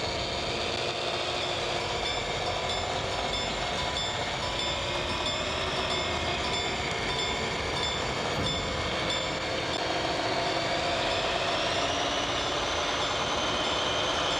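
A train running, with steady rumbling. A whine rises in pitch about eleven seconds in and drops away near the end.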